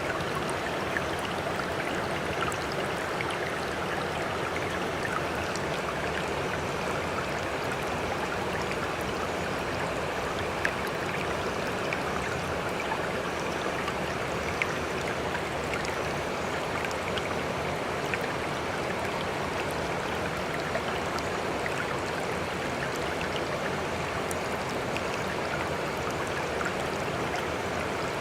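Sea water running in a steady, even wash with no rise and fall of waves, flecked with small splashes and pops.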